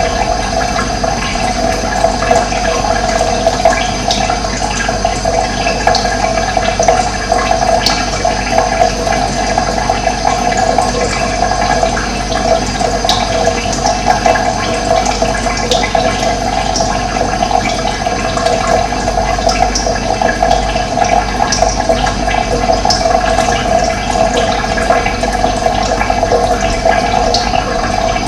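Running water flowing steadily in a continuous rush, with faint short high-pitched ticks now and then.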